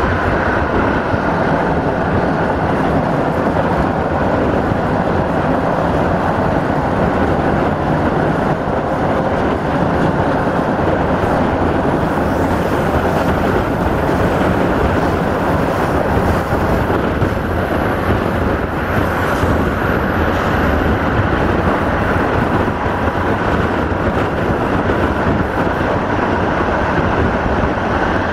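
Steady running noise of a passenger train at speed, heard from an open coach window, with wind rushing over the microphone.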